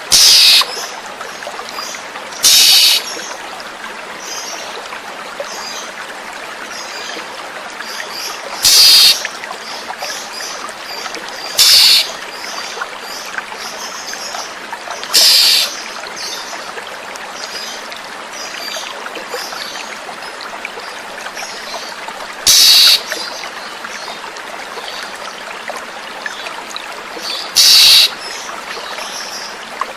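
Oriental magpie-robin lure calls over steadily running water: seven short, loud, harsh calls spread through, with faint high chirps in between.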